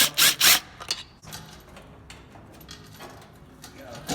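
Tool work on the intake manifold of a turbo LS engine: three short, loud noisy bursts right at the start, then scattered light clicks and knocks of metal parts and tools.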